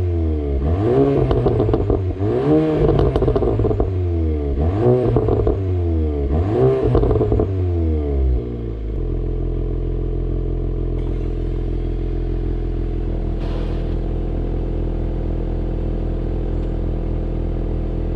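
VW Golf 7.5 GTI Performance's turbocharged 2.0-litre four-cylinder revved through its stock exhaust four times, about two seconds apart, with a few crackles as the revs fall. About eight and a half seconds in it settles to a steady idle.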